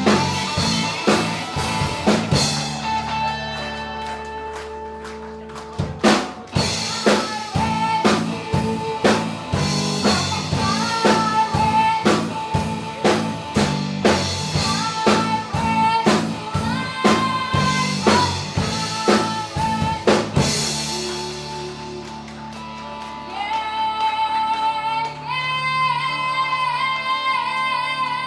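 Live band music: drum kit beating a steady rhythm under bass and a high singing voice holding long notes. About three-quarters of the way through the drums drop out, and the voice holds one long note with vibrato over sustained backing.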